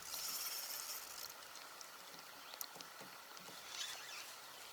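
Faint water sounds around a kayak: a short splashing hiss in the first second, then light splashes and small clicks.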